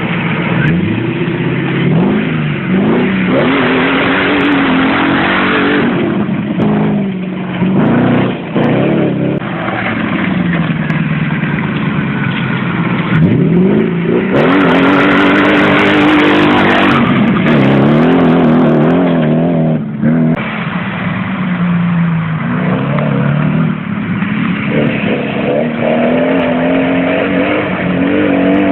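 Audi 4.2 V8 engine swapped into a Toyota Land Cruiser 70, driving under load, its note climbing and falling again and again as it accelerates and eases off.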